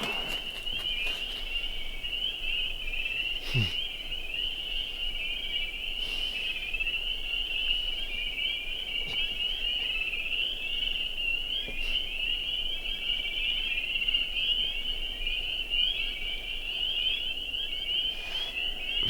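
Dense chorus of spring peepers, many frogs giving short, high rising peeps that overlap into a steady, continuous shrill. A brief falling low sound comes about three and a half seconds in.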